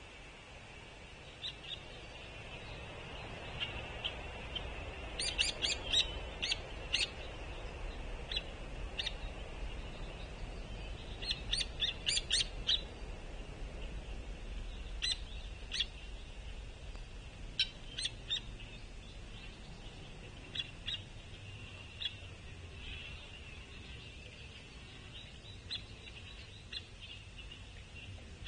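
Juvenile Hairy Woodpecker begging: bouts of short, sharp calls in quick clusters, several times, over a steady high-pitched background hum.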